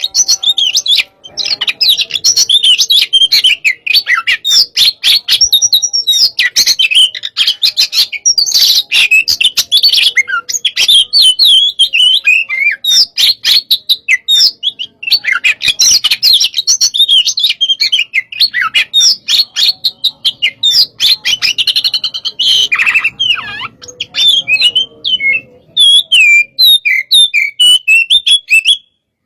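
Oriental magpie-robin (kacer) in full, aggressive song: a loud, nonstop run of rapid varied whistles, glides and sharp chattering notes. It stops abruptly near the end.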